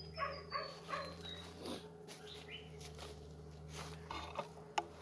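Short animal calls: three quick ones in the first second, then a few more scattered through the rest, over a steady low hum.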